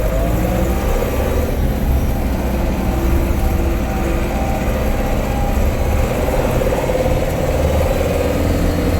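Case 885 XL tractor's diesel engine running steadily under way, heard from inside the cab, with a steady whine above the low drone; it is sounding well.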